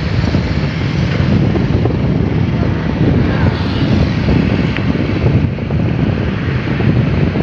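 Wind buffeting the microphone in loud, continuous gusts, over the steady running of long-arm excavators' diesel engines.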